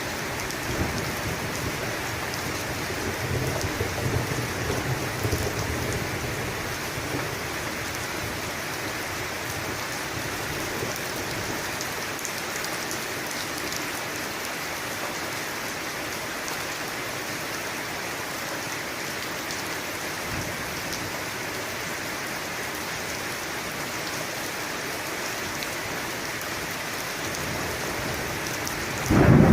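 Steady heavy rain hissing and pattering on a surface. A low rumble of thunder dies away over the first few seconds, and another loud thunderclap breaks in right at the end.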